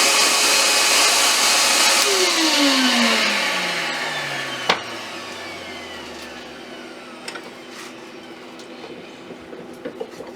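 Lathe running, then switched off about two seconds in, its motor whine falling steadily in pitch as it spins down over several seconds. A single sharp click comes midway, and a few light ticks follow near the end.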